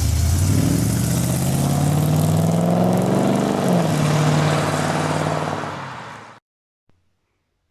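Car engine accelerating, its pitch rising steadily, then dropping at a gear change and holding steady. It fades and cuts off abruptly about six and a half seconds in.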